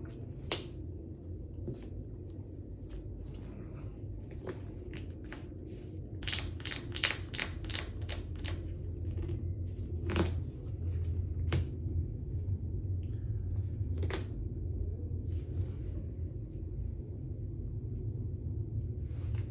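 Trading cards being handled on a tabletop: scattered light clicks and taps, thickest a few seconds in, over a steady low hum.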